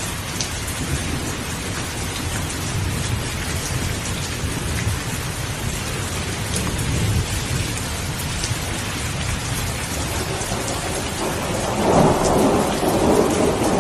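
Steady heavy rain with thunder rumbling low in the background. A louder roll of thunder builds near the end.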